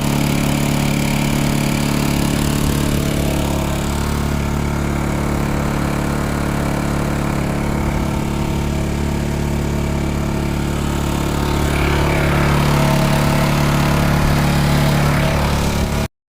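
Sailboat's motor running steadily at a constant speed, a little louder in the last few seconds, then cutting off abruptly.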